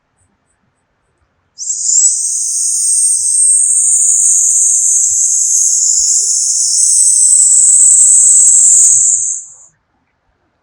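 A long hissing 'sssss' breathed out through the teeth for about eight seconds, starting a couple of seconds in and stopping sharply: the Taoist healing sound for the lungs, made on a slow exhale.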